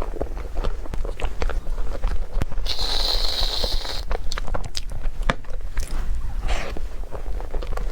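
Close-miked eating: repeated bites and chewing, with small crunching clicks throughout. A hiss lasting about a second comes about three seconds in.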